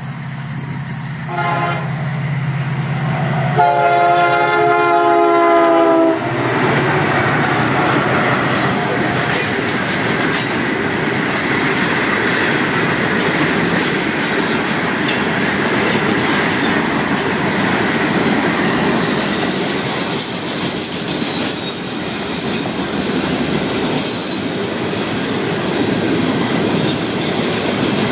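Florida East Coast Railway diesel freight train passing. A low locomotive drone is followed by one horn blast of about two and a half seconds, starting roughly three and a half seconds in. After it comes a steady rumble and clatter of the rock and intermodal cars rolling by.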